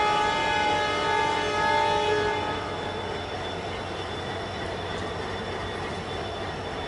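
Diesel locomotive horn sounding one long steady blast that cuts off about two and a half seconds in, over the continuous running noise of the moving train.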